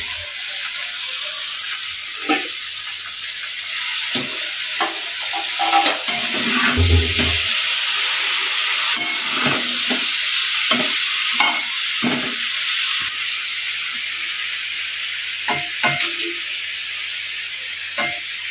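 Vegetables and fresh spinach sizzling in hot oil in a stainless-steel kadai, with a steady frying hiss. A steel spatula scrapes and knocks against the pan many times as the spinach is stirred in.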